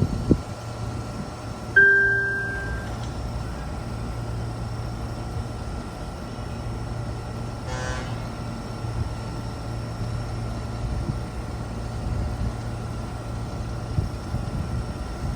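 Steady low hum of a Taiwan Railway train, with a single ringing ding about two seconds in that dies away over a second, and a brief rasp near the middle.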